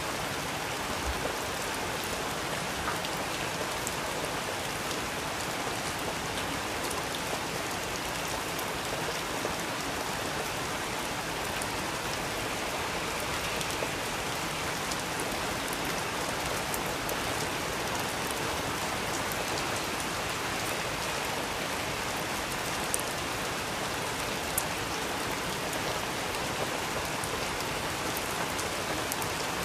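Steady rain falling on a surface, an even hiss with a few sharper ticks.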